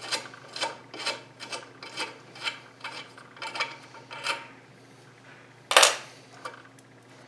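Hand tap being backed out of a freshly cut thread in a square steel bar, scraping and clicking about twice a second as it is turned. About six seconds in there is a single louder clack of metal.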